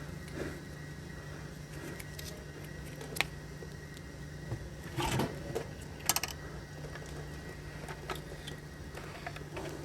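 Scattered light clicks and clinks of hand tools and metal transmission parts being handled, including a quick cluster of clicks about six seconds in, over a steady low hum.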